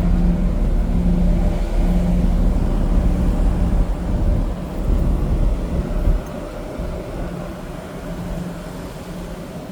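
Ferry's engines running with a steady low drone and hum on board. The drone gets quieter about six seconds in.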